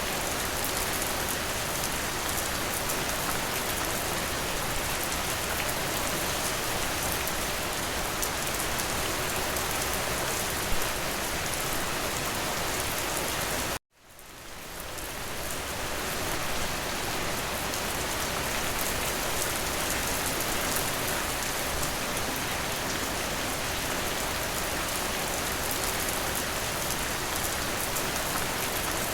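Steady, dense rain falling. About halfway through it cuts out abruptly and fades back in over a couple of seconds.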